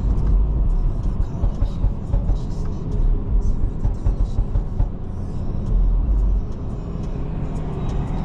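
Inside the cabin of a moving BMW 540i in rain: a steady low rumble of engine and road noise, with many small ticks of rain on the car.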